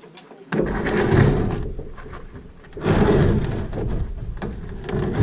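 Wind buffeting the microphone in two gusts, starting suddenly about half a second in.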